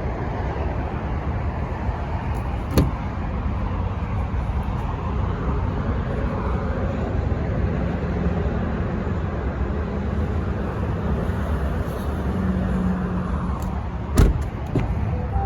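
Steady low rumble of motor-vehicle noise, with a sharp knock about three seconds in and a louder knock near the end.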